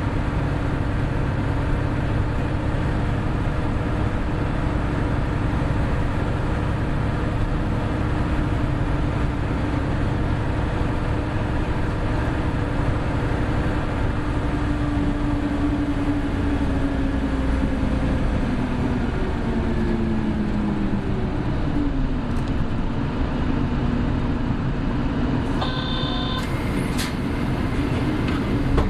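Hino Blue Ribbon City Hybrid bus in motion, heard from inside: steady engine drone and road noise, with a whine that falls in pitch as the bus slows about two-thirds of the way through. A brief electronic tone sounds near the end.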